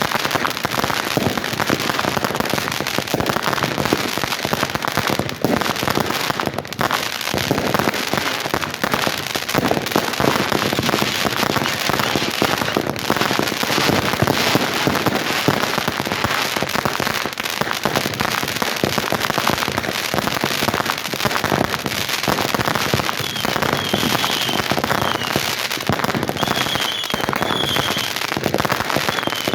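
Fireworks going off in a dense, continuous barrage of overlapping pops and bangs, with a few short high whistles near the end.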